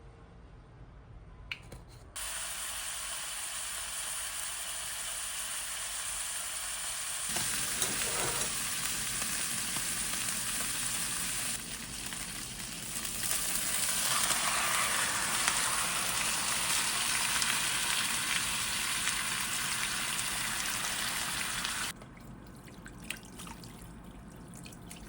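Food sizzling as it fries in a hot pan. It starts about two seconds in, gets louder in steps, as if several takes were joined, and cuts off abruptly near the end.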